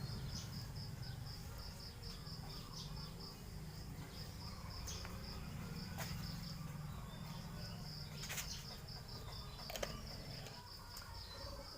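Cricket chirping steadily in rapid, even pulses, with a few faint clicks over a low background rumble.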